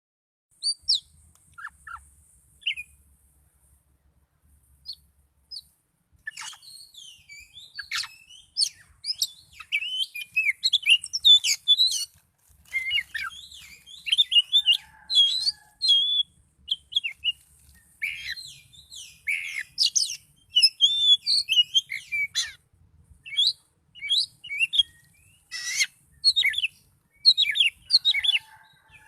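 Oriental magpie-robin singing a fast, varied song of high chirps, whistles and harsh notes: a few scattered phrases at first, then nearly continuous from about six seconds in.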